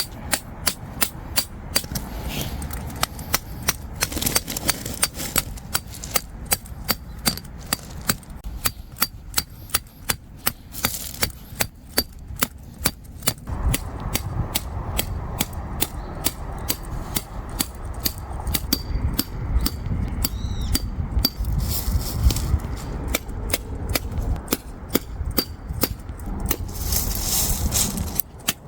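Tent pegs being driven into the ground with a peg hammer: repeated sharp metallic strikes, about two a second, in long runs.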